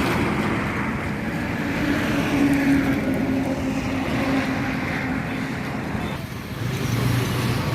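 Heavy trucks' diesel engines running on the road, with a steady engine drone. About six seconds in, the sound dips briefly and then a lower engine tone rises as another truck comes up.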